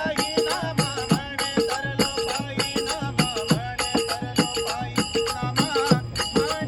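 Instrumental bhajan accompaniment with no singing: a hand drum and small ringing hand cymbals keep a quick, steady beat, the drum's low strokes sliding down in pitch.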